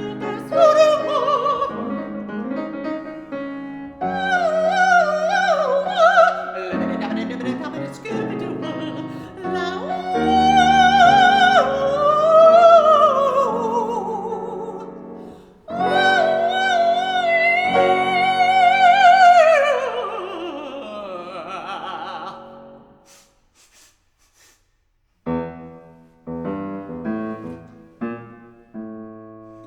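Mezzo-soprano singing an operatic line with wide vibrato over piano accompaniment, ending on a long held note that slides down and fades away. After a short pause, the piano plays chords alone.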